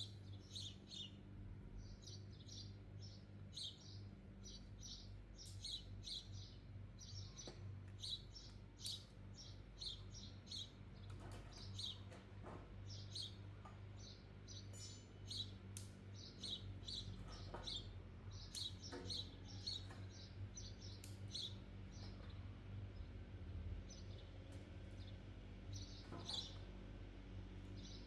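Small birds chirping over and over in quick short notes, over a steady low hum, with a few sharp clicks scattered through.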